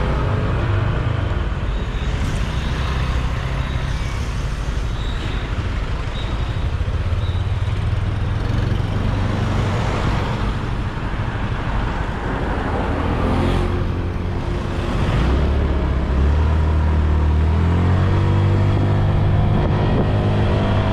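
Motorbike engine running under way, with road and wind noise. The engine note climbs as it speeds up about two thirds of the way through and again near the end.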